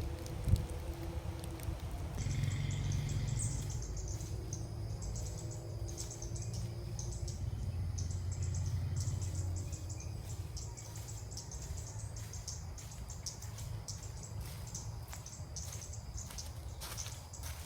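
Birds chirping and calling, over a dense high-pitched chatter that starts about two seconds in and carries on, with a low rumble underneath.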